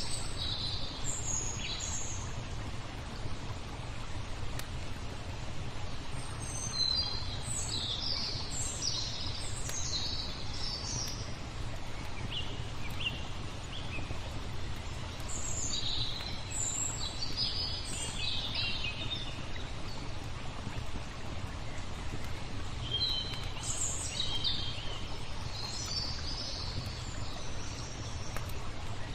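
Small birds chirping in several spells of quick high calls over a steady wash of flowing water, with a low steady rumble underneath.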